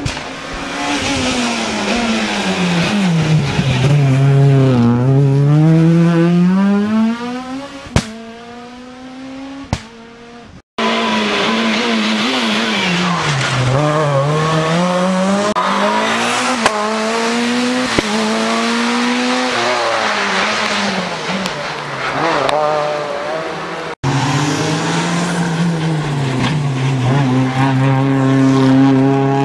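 Rally cars at full throttle on a special stage, engines revving high and dropping repeatedly through gear changes and lifts as they pass, with a few sharp pops. The sound cuts abruptly twice as one car gives way to the next.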